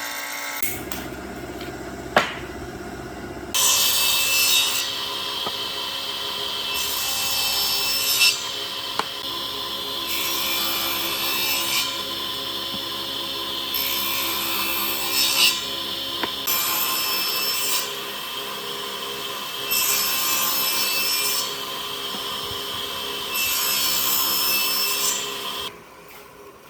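A power tool working wood. Its motor runs steadily while it makes repeated louder cutting or sanding passes of a second or two each, about every three seconds.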